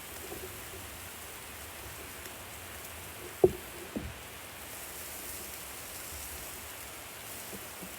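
Food sizzling steadily on a barbecue grill, with two short knocks half a second apart about midway.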